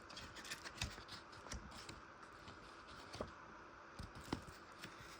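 Faint handling noises: scattered light clicks and soft rustles as a VHS tape's paper inserts and case are picked up and turned over, with a couple of slightly sharper knocks about three and four seconds in.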